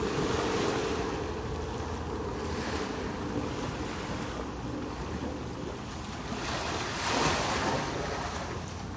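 Ocean surf: waves washing in, with one louder wash about seven seconds in, and wind rumbling on the microphone.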